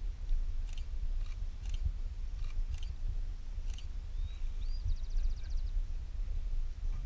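A bird sings once, about four seconds in: a short rising whistle, then a fast, even trill of about a dozen high notes. Underneath runs a low rumble of wind on the microphone, with scattered light ticks.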